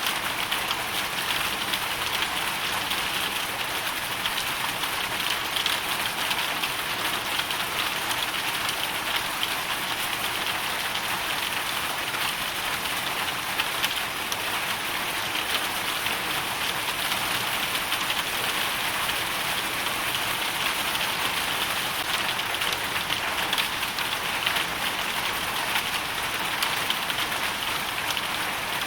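Hailstorm: a steady, dense patter of hailstones and rain striking surfaces, made up of countless small ticks.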